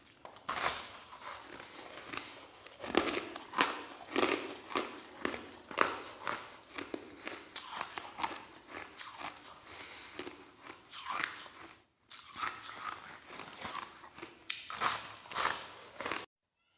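Crushed soft ice being bitten and chewed close to the microphone: rapid, irregular crunches several times a second. It cuts off suddenly near the end.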